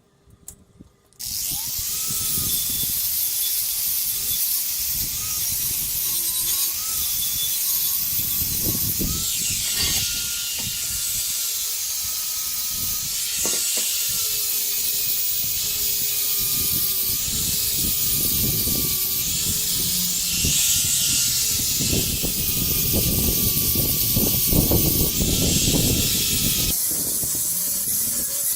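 Angle grinder working steel, starting about a second in and running on with a hissing rush of noise and a motor whine whose pitch dips and recovers as it is loaded.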